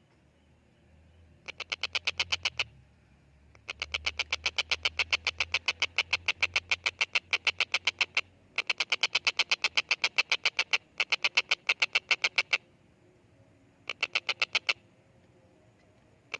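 Stork-billed kingfisher giving a fast rattling call of sharp, evenly repeated notes, about eight to ten a second. It comes in four bursts: a short one about a second and a half in, two long ones of about four seconds each, and a brief one near the end.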